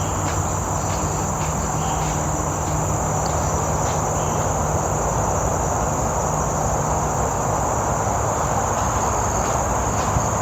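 Steady high-pitched insect drone in tropical forest, over a continuous low rumble of traffic from a nearby main road.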